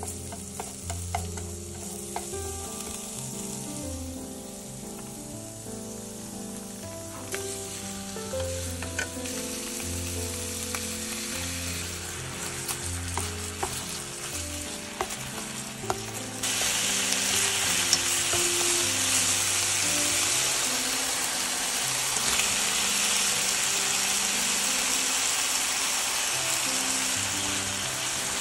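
Happo-sai ingredients stir-frying in a hot pan, with scattered light taps and scrapes of a cooking utensil. The sizzle grows louder about seven seconds in and becomes much louder around the middle.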